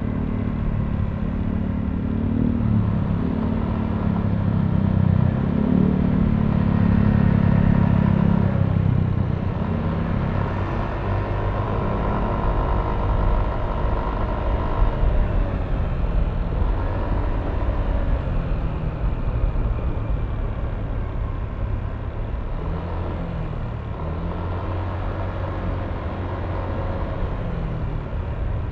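Yamaha Aerox V3 scooter engine running on the move, its pitch rising and falling with the throttle. It is loudest from about four to nine seconds in, then eases back.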